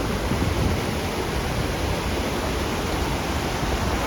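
Rushing water: a steady, even hiss that holds at one level throughout.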